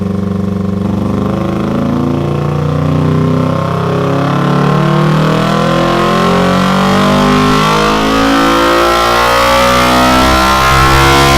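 Kawasaki Ninja 300's parallel-twin engine breathing through a short carbon fibre aftermarket muffler, pulling under load on a dyno with its pitch rising slowly and steadily as the revs climb.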